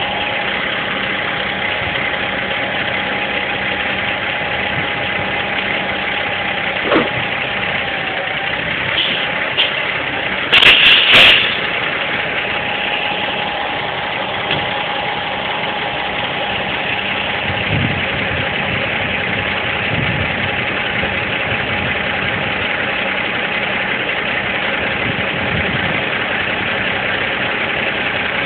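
Heavy diesel engine idling steadily, with a faint held whine over it. About ten seconds in there is a short cluster of loud sharp bangs or clunks, with a single smaller knock a few seconds before.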